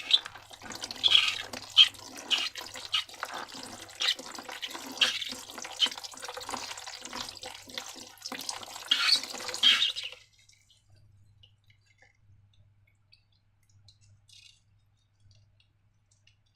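Thick slime squelching, with sticky wet crackles and pops as it is squeezed and worked, for about ten seconds; then it stops, leaving only a few faint ticks.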